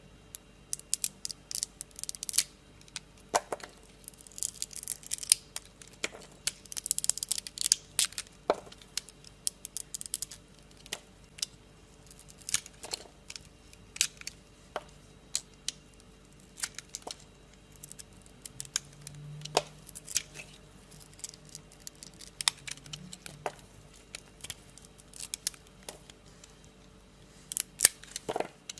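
Knife cutting into dry soap, making irregular crisp cracks and crunchy snaps, with a denser crunchy scraping run a few seconds in.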